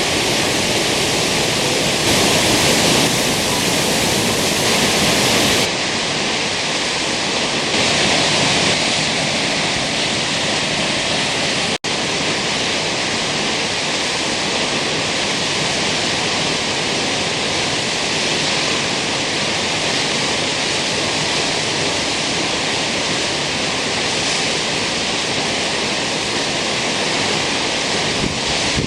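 Kegon Falls' water falling, a loud, steady rush of white noise, broken by a split-second dropout about twelve seconds in.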